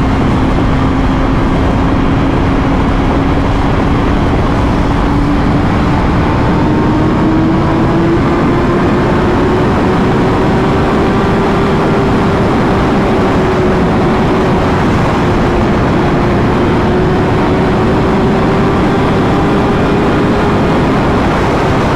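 Motorcycle being ridden at road speed: loud wind rush over the microphone, with the engine's tone climbing slowly during the first half as the bike gathers speed, then holding steady.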